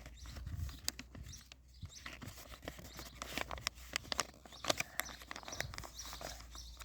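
Sheet of paper rustling and crackling in the hands as it is folded and creased into a paper airplane, with many small irregular clicks.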